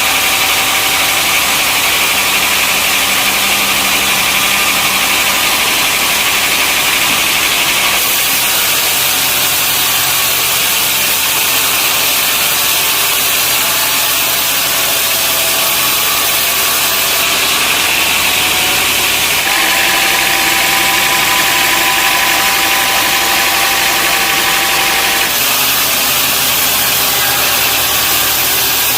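Sawmill machinery running: a steady, loud mix of engine and saw noise as logs are sawn, changing abruptly in tone several times.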